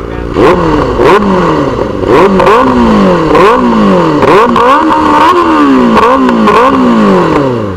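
Benelli TNT 600 GT's inline-four engine running through an aftermarket Ixil exhaust, revved in a series of about ten quick throttle blips with the bike standing still. Each blip rises sharply in pitch and falls away more slowly.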